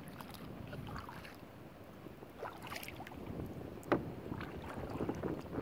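Kayak paddling: water splashing and dripping off the paddle, with a sharp knock about four seconds in.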